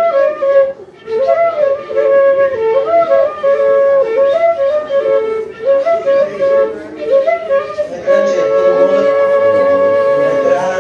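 Pífanos (Brazilian cane fifes) of a banda de pífano playing a lively melody in two-part harmony, settling into a long held note about eight seconds in.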